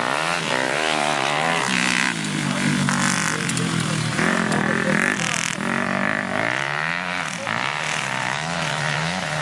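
Motocross bikes' engines revving, their pitch rising and falling again and again with throttle and gear changes, several engines overlapping.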